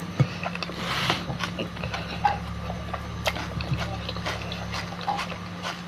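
Someone eating with their hands: faint chewing and mouth smacks, scattered small clicks and a brief noisy rustle about a second in, over a steady low hum.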